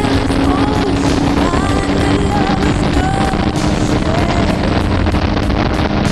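Donzi speedboat's engine running steadily at speed, a constant low drone under heavy wind and water noise.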